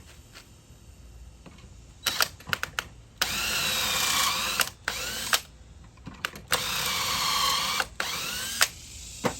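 Power drill boring two pocket holes through a pocket-hole jig into a wooden 1x3: a few sharp clicks as the bit is set, then two runs of about a second and a half each, the motor's pitch sagging and then holding as it cuts.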